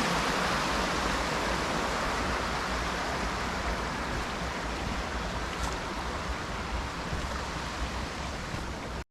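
Creek water rushing over rocks in a steady, even rush that slowly grows quieter.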